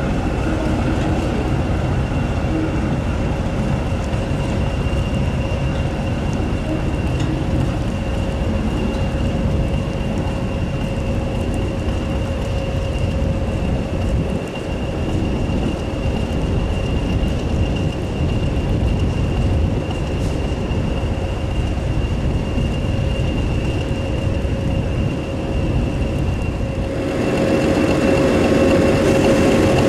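A diesel locomotive's engine running with a heavy low rumble and a steady whine, growing louder near the end.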